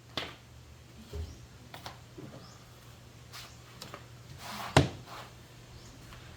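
A few scattered knocks and thuds of wooden boards being handled, irregular rather than a steady hammering rhythm, the loudest about five seconds in.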